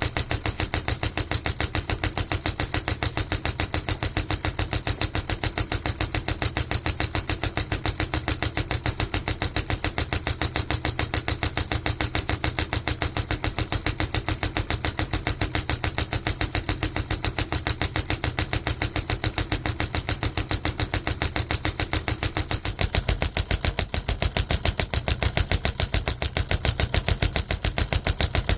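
Homemade solenoid engine running, its plunger beating in a fast, even rhythm. The beat grows a little louder and deeper about three-quarters of the way through.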